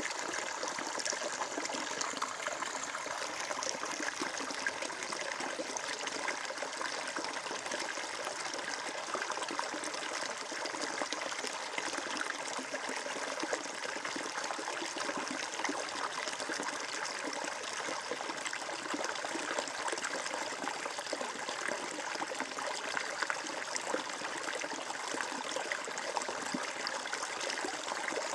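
Water flowing and trickling steadily, a continuous babbling splash with no pauses.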